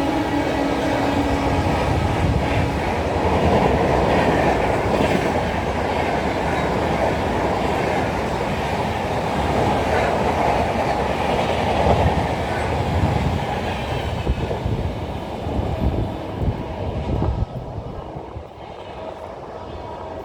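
Rajdhani Express passenger train passing at high speed, about 140 km/h: a loud, steady rush of wheels and coaches on the rails. The last of its horn note ends about a second and a half in. Near the end the noise drops away sharply as the train goes by.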